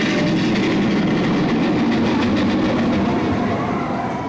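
A train running past: a steady loud rumble with faint wheel clatter, easing off near the end.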